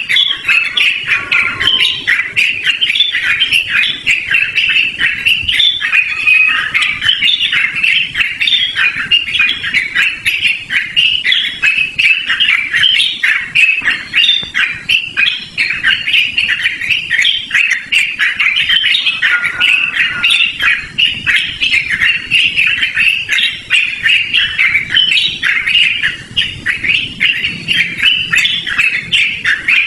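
Yellow-vented bulbul (trucukan) singing without a break: a loud, fast stream of chattering, warbling notes that runs on continuously.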